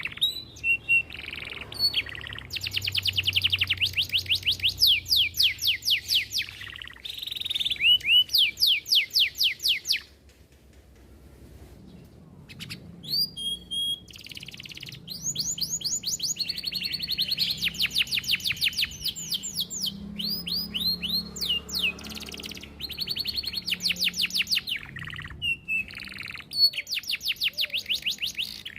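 Domestic canary singing a long song of rapid trills and rolls, fast repeated high notes strung into long runs with a few short whistled notes. The song stops for about two seconds near the middle, then picks up again.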